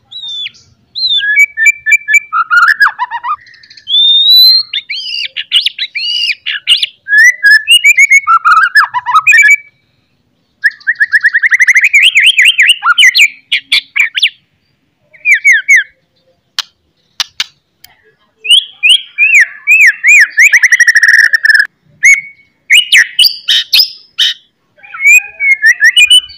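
A songbird singing loud, varied phrases of whistles and rapid rattling trills, broken by short pauses and a few sharp clicks, with two long rapid trills. This kind of recording is played to white-rumped shamas to provoke them into singing.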